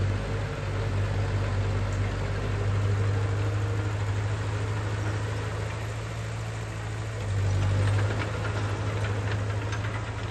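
Heavy construction machine's diesel engine running steadily, rising in loudness for a moment about three-quarters of the way through, with light clicks and clanks near the end.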